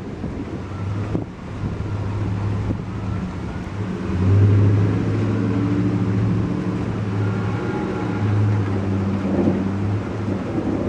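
A motor vehicle's engine running close by, a steady low hum that swells about four seconds in and eases off near the end, over the hiss of rain.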